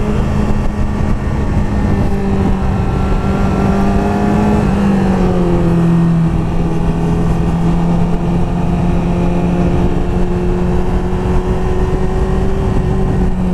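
Vehicle engine running steadily under way at cruising revs, its pitch stepping down a little about five seconds in, then holding steady.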